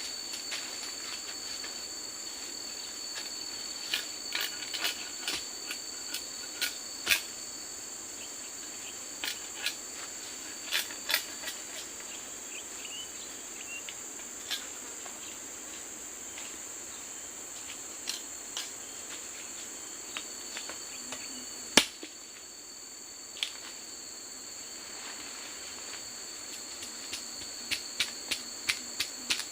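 Steady, high-pitched forest insect chorus, crickets or cicadas, holding two continuous tones. It is punctuated by irregular sharp knocks or clicks, the loudest about 22 seconds in, with a quick run of them near the end.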